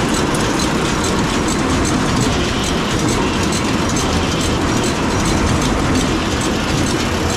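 Old silage feed cart running with a loud, steady mechanical clatter and rattle. The owners say it sounded weird because its drive had been left in freewheeling mode.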